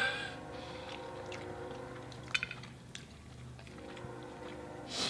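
Someone chewing food with their mouth close to the microphone, with a few sharp crunchy clicks about two seconds in and another near the end.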